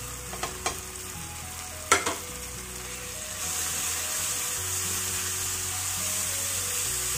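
Onion-tomato masala sizzling in hot oil in a non-stick frying pan as ground spices are tipped in and stirred with a wooden spatula. A few light clicks and one sharp knock come about two seconds in, and the sizzle grows louder from about halfway through.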